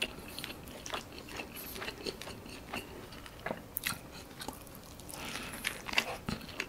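Close-miked mouth sounds of a person biting into and chewing a homemade prosperity burger: a soft bun with a thick beef patty, black pepper sauce and onion. Soft chewing with scattered small clicks and smacks.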